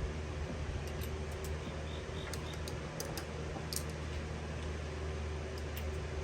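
A steady low hum, like a shop fan, runs throughout, with a scattered series of short, light clicks and taps over it.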